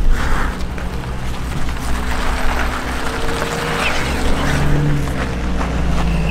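Jeep Wrangler engine running at low revs as the Jeep crawls slowly up a rocky hill, a steady low rumble.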